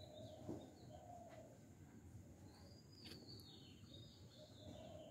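Near silence, with faint bird calls in the background: thin high chirps and short, repeated lower notes. A soft tap sounds about half a second in.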